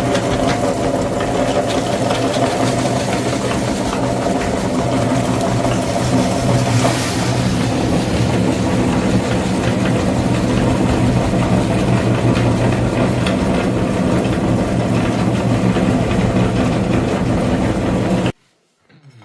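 Tractor engine running at a steady idle, cutting off abruptly near the end.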